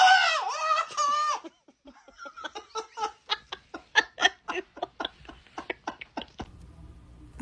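A high, wavering cry lasting just over a second, then a person laughing in quick repeated bursts for about four seconds.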